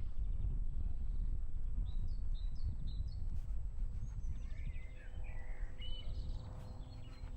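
Small birds chirping in short runs, twice, over a steady low rumble of outdoor noise.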